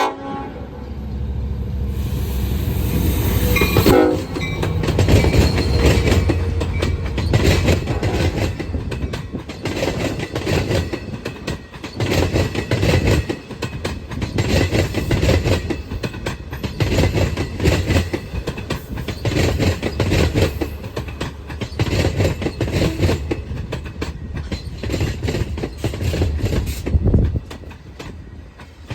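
Long Island Rail Road diesel train passing close by, its wheels clattering over the rail joints, with a brief horn-like tone near the start and again about four seconds in. The clatter stops suddenly about 27 seconds in.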